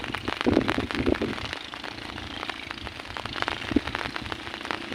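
Rain falling: a steady hiss with many sharp raindrop hits.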